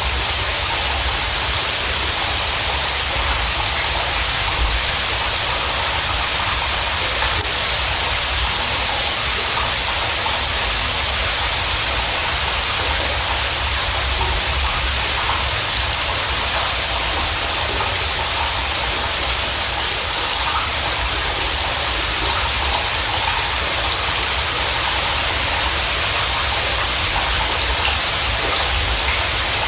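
Steady rain falling, an even hiss of drops with a low rumble underneath and no break or change.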